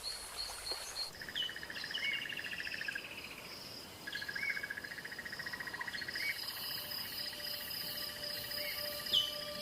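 Natural bush ambience: insects trilling in long, rapidly pulsing trills, with short bird calls over them. The ambience changes about a second in, from a run of repeated short chirps to the steady trilling.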